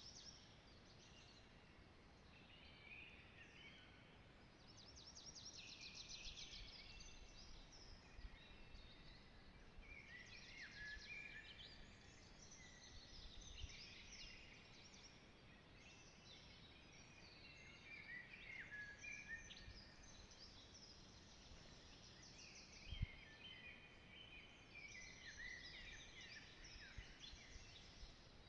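Faint chorus of several songbirds singing at once, their songs overlapping and following one another without a break. A single low thump about two-thirds of the way through.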